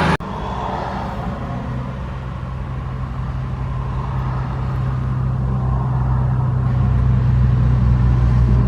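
Truck engine running with a steady low hum that grows gradually louder. It starts just after a sudden break about a fifth of a second in.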